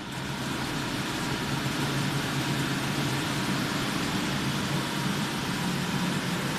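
Kitchen extractor fan running steadily: a constant rushing of air over a low motor hum, having just spun up to speed.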